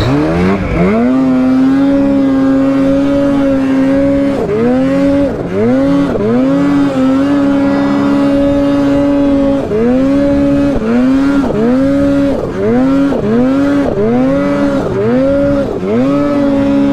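Polaris mountain snowmobile's two-stroke engine under throttle, held at a steady high pitch, then repeatedly let off and opened again, so the note dips and climbs back about a dozen times. The dips come roughly once a second in the second half.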